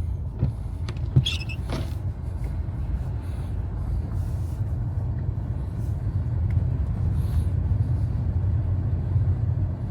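Tesla Model S tyres rolling over a wet, salted road: a steady low road rumble with no engine note, and a few short knocks about a second in.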